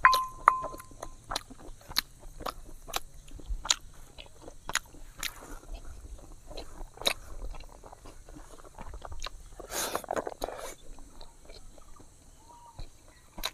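Close-up eating sounds: chewing and crunching food, with scattered sharp clicks and smacks. Right at the start a brief ringing clink as the pestle knocks the mortar.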